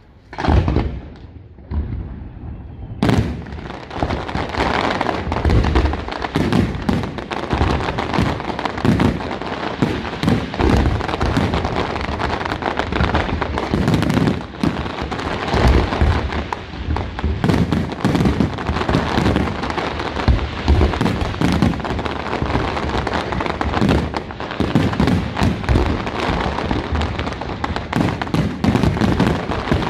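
Aerial fireworks display: one bang, then from about three seconds in a dense, continuous barrage of shell bursts and crackle.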